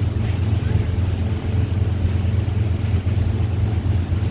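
Tour boat's motor running steadily, a low even drone, with wind and water noise rushing over the microphone.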